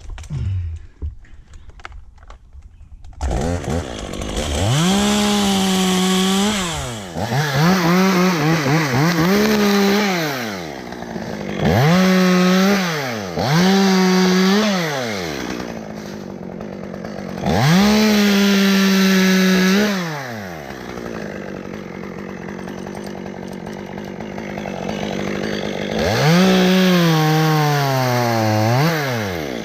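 Two-stroke chainsaw run at full throttle in about seven short bursts of one to three seconds, falling back to idle between them, as in cutting limbs.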